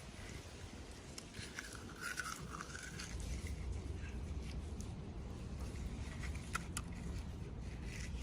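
Small toy packaging being handled: scattered faint clicks and a brief crinkle about two seconds in, over a low steady hum.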